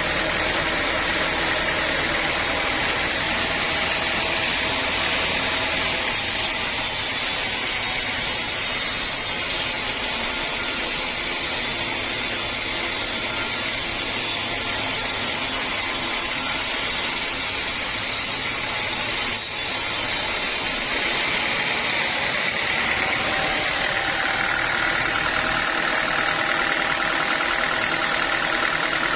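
Sawmill machinery running steadily: a constant mechanical drone, with a hissing high edge added from about six seconds in until about twenty-one seconds in.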